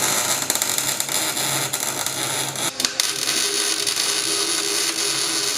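Electric welding arc crackling steadily while a steel engine-mount bracket made from square tubing is welded. The arc breaks off briefly just under three seconds in, then starts again.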